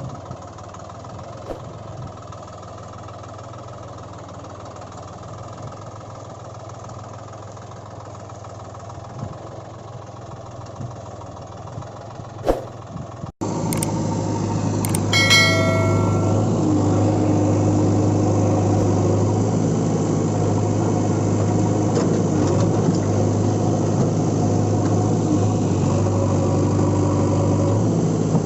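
Toy vehicle's engine-like sound, a steady low hum. It cuts off abruptly about halfway through and returns louder, and a short ringing chime sounds a couple of seconds later.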